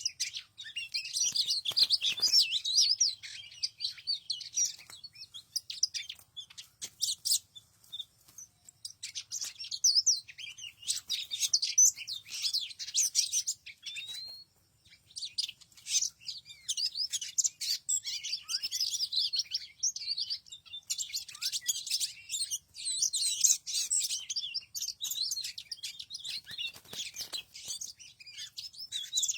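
Small birds chirping and twittering in rapid, high-pitched bursts, with short pauses between them and one brief break about halfway through.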